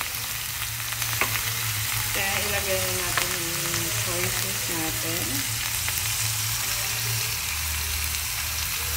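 Frog meat and sliced onions sizzling in hot oil in a metal wok, stirred with a metal spatula that gives scattered clicks against the pan.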